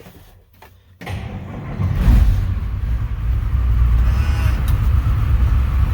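Big 9-liter diesel truck engine cold-started: a moment of cranking, then it catches about two seconds in and settles into a steady low rumble at idle.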